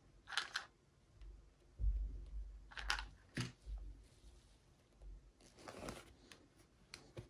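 Packaging being handled and opened: short bursts of rustling and crinkling, three main ones, with a few light clicks and a soft thump about two seconds in.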